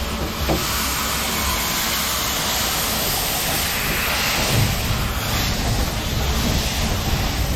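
A steady, loud hiss of escaping steam from the 1913 Orenstein & Koppel 0-4-0 narrow-gauge steam tank locomotive Montalban, over a low rumble.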